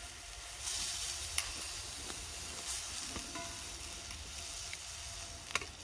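Thin slices of pork frying in a pan over a campfire, a steady sizzle with a few sharp pops.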